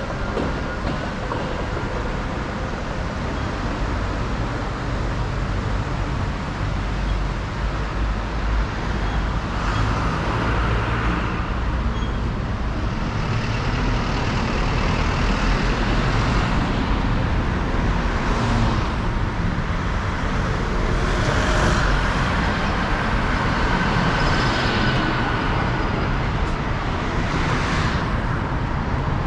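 City street traffic: steady road noise from cars and trucks, with vehicles passing close by several times.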